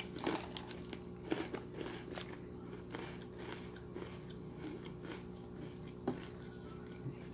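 A person biting and chewing an Oreo cookie: quiet, crisp crunches and mouth clicks, thickest in the first couple of seconds, with one sharper click about six seconds in.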